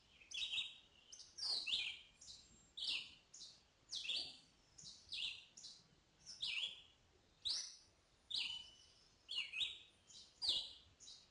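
Red-eyed vireo singing: short phrases of a few quick notes rising and falling in pitch, about one a second, with brief pauses between them.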